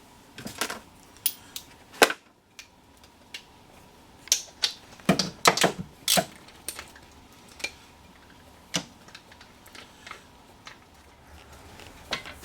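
Irregular metallic clicks and clinks of hand tools and loose bolts as a valve cover is unbolted and lifted off an engine, with a cluster of sharper knocks about halfway through.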